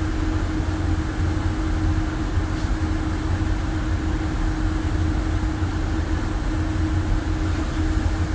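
Steady rumble and hum of a warship's machinery, with a constant mid-pitched drone and a faint high whine, unchanging throughout.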